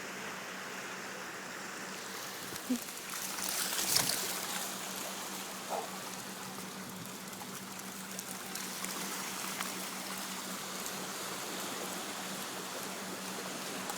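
Lake water washing and trickling steadily around a sandbar, with a few brief sharp sounds about three and four seconds in.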